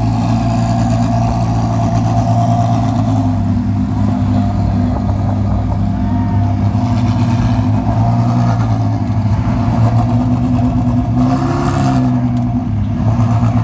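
Ferrari Challenge race car's V8 idling steadily at an even pitch.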